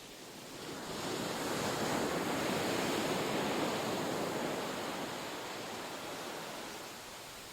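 Ocean surf: a wave washes in, swelling over the first two seconds or so, then slowly fading as it draws back.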